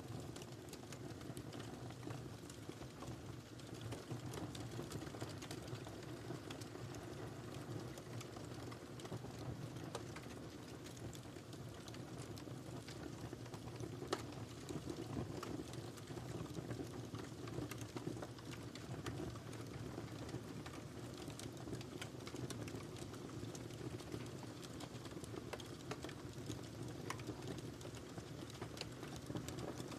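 Wood fire crackling: a low steady rumble of burning with many small scattered pops and snaps, one sharper pop about fourteen seconds in.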